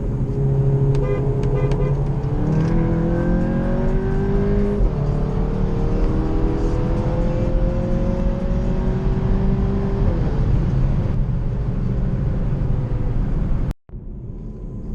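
Volkswagen GTI's engine pulling hard under acceleration: its pitch climbs, steps down at a gear change about five seconds in, then climbs again before holding steady. The sound cuts out abruptly near the end.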